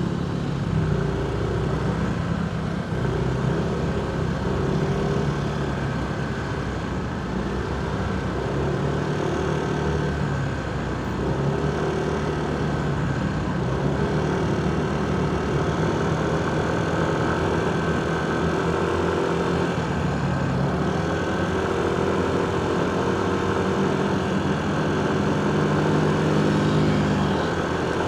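Motorcycle engine running at low, steady revs in slow traffic, its pitch shifting slightly now and then, with the noise of surrounding vehicles.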